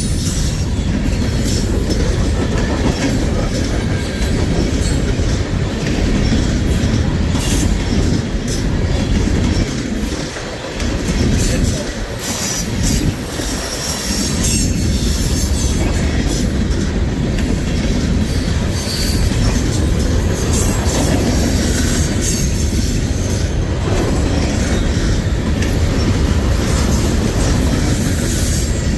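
Freight cars of a CSX manifest train rolling past, with steady rumbling, wheels clicking over rail joints and high-pitched wheel squeal. The rumble dips briefly about a third of the way through.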